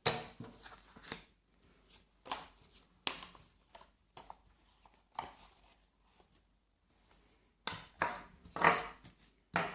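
Faint scattered taps and knocks of small objects being handled and set down on a table, roughly a second apart. Near the end come a few louder handling sounds.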